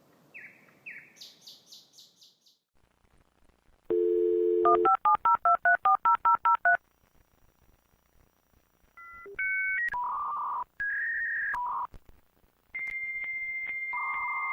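A dial-up modem connecting: a dial tone, a quick run of about a dozen touch-tone dialing beeps, then a series of steady electronic handshake tones, ending in a long high answer tone. It opens with a few faint chirping notes before the dial tone.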